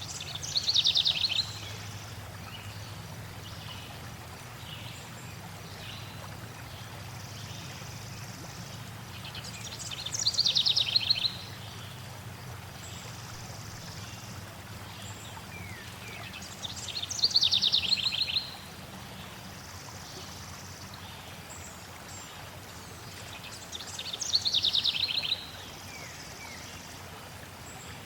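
A songbird sings the same short, rapid trilled phrase four times, about once every seven seconds, over a steady hush of flowing water.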